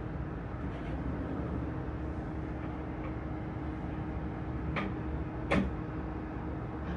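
Steady low rumble with a faint steady hum, broken by two sharp clicks close together about five seconds in.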